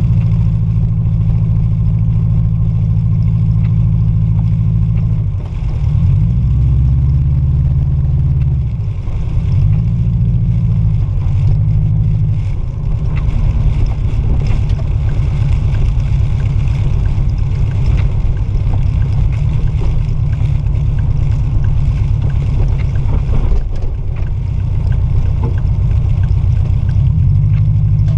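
Subaru Impreza Outback Sport's flat-four engine running while driving, heard from inside the cabin. Its revs fall and rise a few times a few seconds in, then hold steady.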